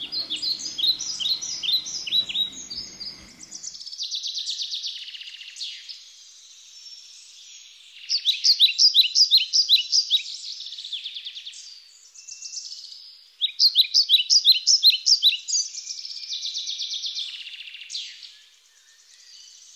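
Birdsong: phrases of rapid, repeated high chirps, with softer trills between them.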